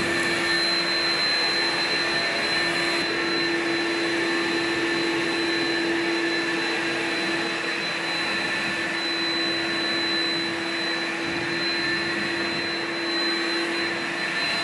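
A blower running steadily with a constant motor whine, blowing dust out of the shop.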